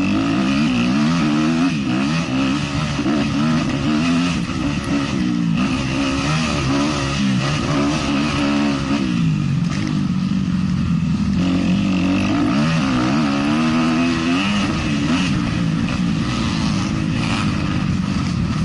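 450-class motocross bike engine being ridden hard, the revs repeatedly climbing and dropping as the rider accelerates and shuts off.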